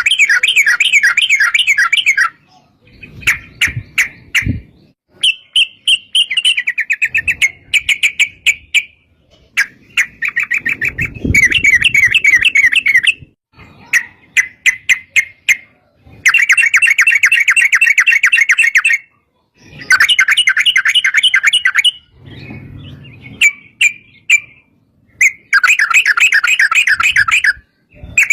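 Yellow-vented bulbul (trucukan) song: repeated bursts of fast, rattling chatter, each lasting one to three seconds, separated by short pauses and quick single notes.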